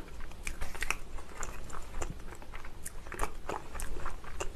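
A person chewing a mouthful of dumpling close to a clip-on microphone: irregular soft wet mouth clicks and smacks.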